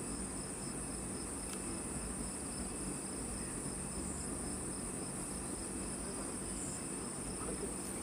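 A forest insect chorus: a steady, high-pitched chirring that holds unchanged throughout.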